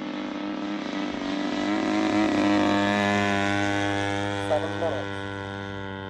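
Single-cylinder two-stroke EME60 gas engine and three-blade propeller of a giant-scale RC warbird flying by: the drone grows louder to a peak a little over two seconds in, then fades as the plane moves away.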